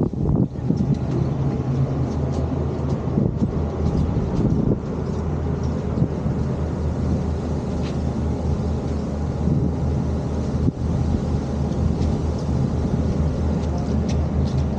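Steady low drone of a cruise boat's engines under way, with wind buffeting the microphone.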